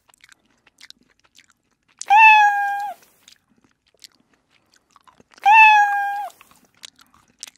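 A kitten meowing twice, each meow about a second long and held on one high pitch, with faint clicks between the calls.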